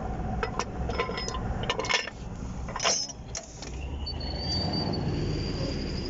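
A string of sharp clinks and knocks over the first three seconds, then an engine running low and steady with a thin high whine from about four seconds in.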